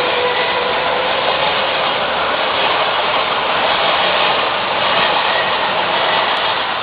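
Odakyu electric train passing close by at the level crossing: a loud, steady rumble of wheels on rails, with a faint whine that fades about a second in.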